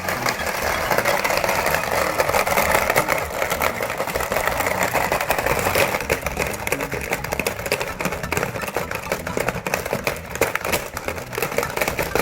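Plastic frog candy-catching toy game clattering with a dense, rapid run of plastic clicks.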